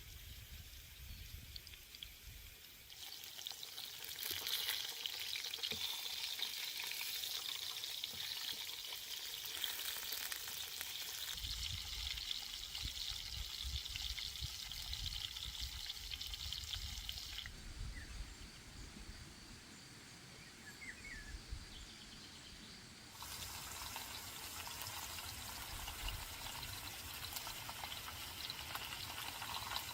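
Food frying in hot oil, a steady sizzle that shifts abruptly in level several times and drops quieter for a few seconds past the middle.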